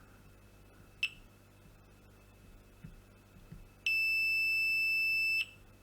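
Multimeter continuity beeper: a brief chirp about a second in, then a steady high beep for about a second and a half near the end, the sign that the probes have found a connection between two points on the circuit board.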